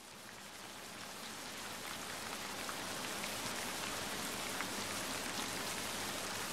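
Steady rain with scattered drops pattering, fading in from silence over the first few seconds.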